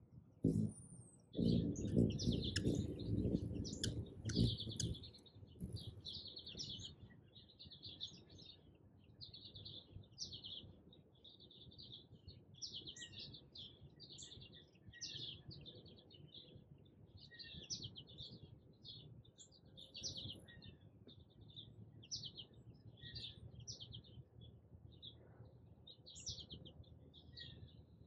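Small birds chirping steadily, short high chirps about two a second. A loud low rumble runs through the first few seconds.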